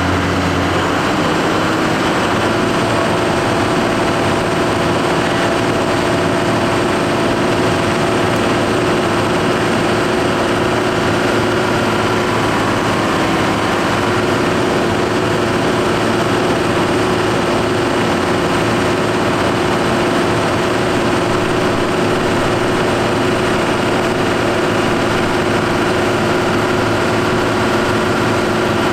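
Case Maxxum 5140 tractor's six-cylinder turbo diesel running at full speed on a power-test dynamometer. Its pitch rises for about the first second, then holds steady under load.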